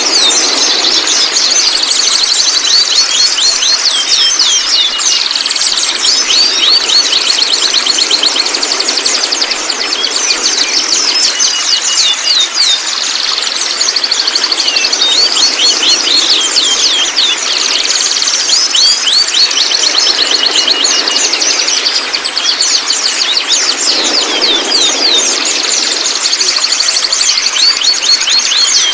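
Juvenile white-rumped shama calling: fast, continuous trains of short, high, chattering notes, with a thin steady high tone running underneath.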